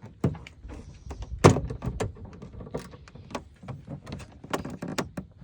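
Pickup truck door handle and latch being worked: a run of irregular clicks and clacks, with one louder clack about a second and a half in, as a newly fitted chrome handle is tried out.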